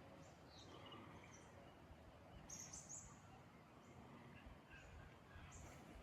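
Near silence outdoors with faint bird chirps, a brief cluster of high chirps about two and a half seconds in.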